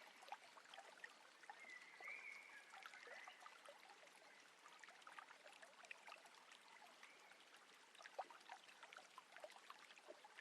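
Faint water lapping and trickling against a boat's hull, many small drips and splashes scattered throughout, with a faint high warble in the first few seconds.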